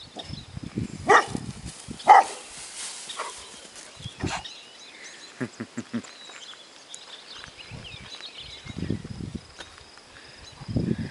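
A dog giving a few short, scattered barks, the loudest about two seconds in, with faint high chirps in the background.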